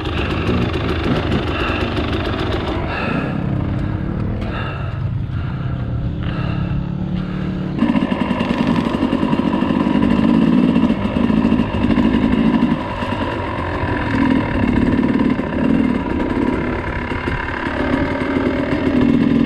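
Dirt bike engine running and being throttled; it gets louder and higher in pitch about eight seconds in.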